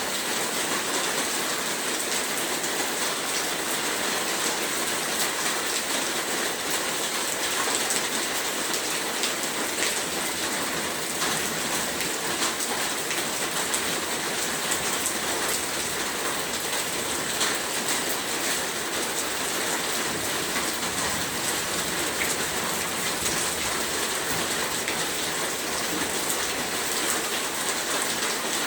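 Heavy rain falling steadily, a dense even hiss of many drops striking a surface.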